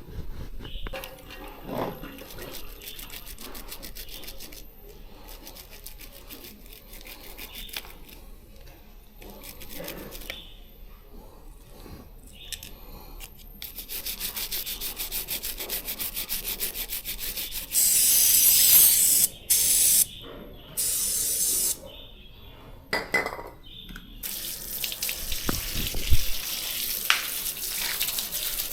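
Wet cleaning of a bicycle chain: water and rubbing sounds, then a rapid, even clicking as the chain is run through the drivetrain. Three short bursts of spray hiss come in the middle.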